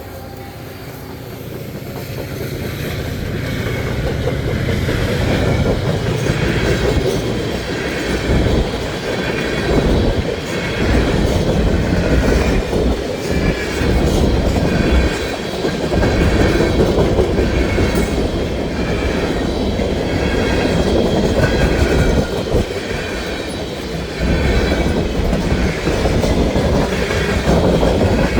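Freight train passing close by: the EMD diesel locomotives rumble past, then the cars roll through with a steady, rhythmic clickety-clack of wheels over the rail joints. The sound builds over the first several seconds.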